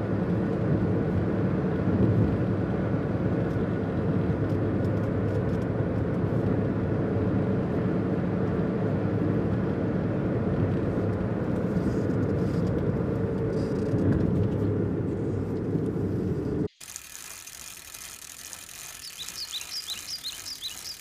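Car engine running steadily with a low rumble for about 17 seconds, then cutting off suddenly into a quieter stretch with faint hiss and a few short high chirps near the end.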